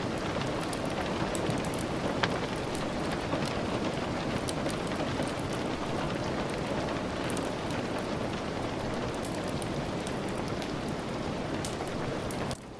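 Steady rain, a dense even hiss, with scattered sharp crackles from a wood fire mixed in. The whole sound drops suddenly in level just before the end.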